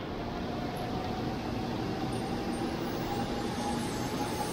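Shinkansen bullet train alongside the platform, its motors giving a thin whine that slowly rises in pitch over a steady rumble.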